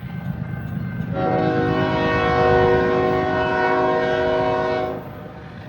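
A Norfolk Southern freight locomotive's air horn sounds one long chord, starting about a second in and holding steady for about four seconds before cutting off. Wind rumbles on the microphone throughout.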